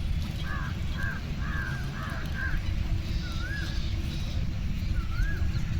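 Birds calling: a quick string of short calls in the first couple of seconds, then a wavy whistled call repeated about every two seconds, over a steady low rumble.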